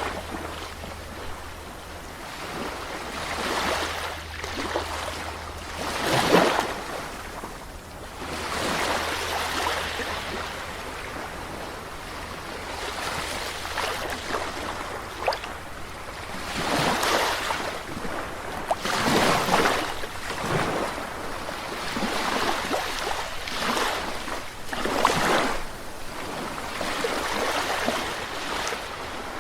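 Sea waves breaking and washing on a shore, one swell after another every few seconds, with a steady hiss of surf between them.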